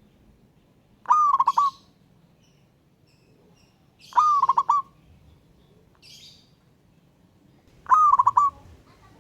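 Zebra dove (perkutut) cooing: three phrases about three seconds apart, each a rising note followed by a quick run of short clipped coos.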